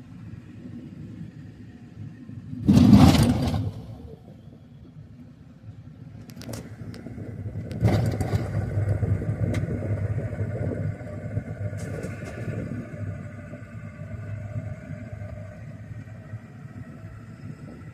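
Vehicle on the road: a steady low rumble of engine and road noise, with a loud rush lasting about a second, three seconds in, and the rumble growing louder from about eight seconds in.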